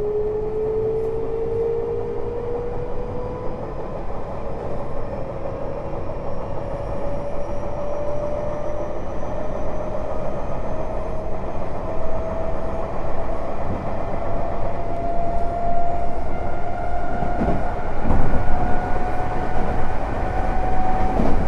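Tokyo Metro 05 series electric train heard from inside the car, running between stations: the Mitsubishi IGBT inverter and traction motors give a whine that rises slowly in pitch as the train picks up speed, over the steady rumble of wheels on rail. A few knocks come near the end.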